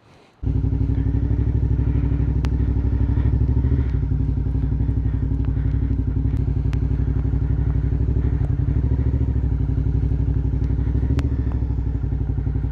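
Suzuki V-Strom 650XT's V-twin engine running steadily, coming in abruptly about half a second in, with a few faint sharp clicks over it.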